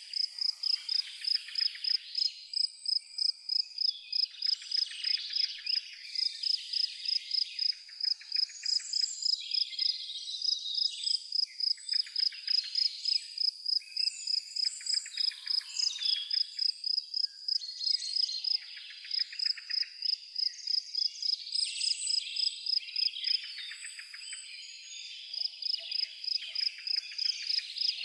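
A cricket chirping in a steady, high-pitched rhythm of about three chirps a second, with birds singing varied phrases over it.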